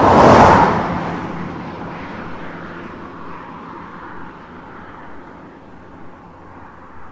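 A car driving past: it grows loudest just after the start, then fades slowly as it moves away.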